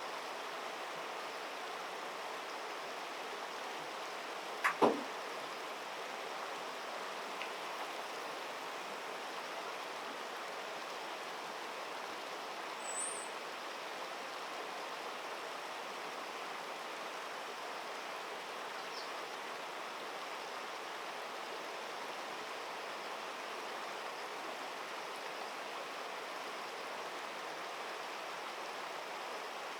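Steady rushing of flowing stream water. Two sharp knocks just under five seconds in, and a brief faint high chirp about thirteen seconds in.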